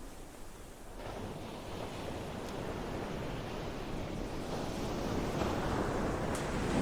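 Ocean waves surging, a rushing wash that swells louder from about a second in and falls away near the end.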